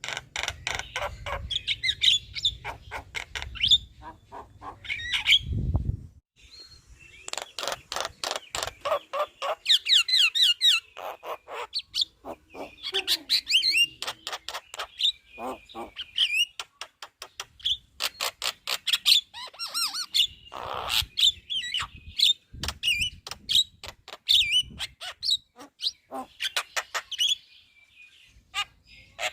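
Javan myna chattering vigorously: fast trains of clicking, rattling notes mixed with short whistled calls, broken by brief pauses. A low hum under the first few seconds ends with a thump.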